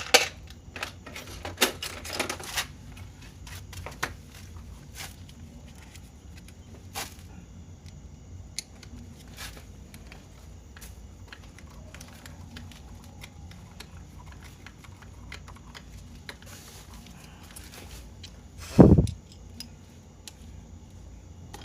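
Scattered small clicks and knocks of tools and parts being handled while a water pump is taken apart, with one loud dull thump about nineteen seconds in.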